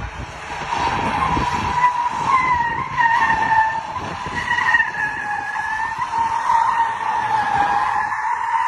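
Car tyres squealing in one long, wavering skid, over low vehicle rumble that fades after the first couple of seconds.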